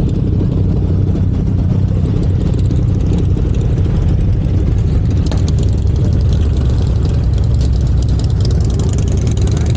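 Motorcycle engines running in slow street traffic: a loud, steady low rumble.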